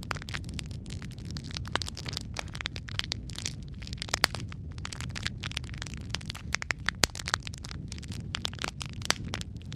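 Wood fire crackling in a fireplace: frequent irregular sharp pops and snaps over a steady low rumble of flames.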